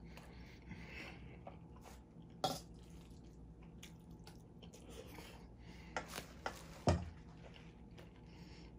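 Soft chewing of a mouthful of food, with a few short sharp clicks of a metal spoon against a stainless steel bowl, once about two and a half seconds in and several more a little before the end.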